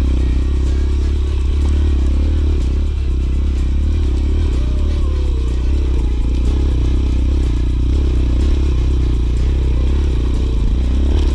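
Dirt bike engine running steadily while riding a rough, rocky trail, with a heavy low rumble.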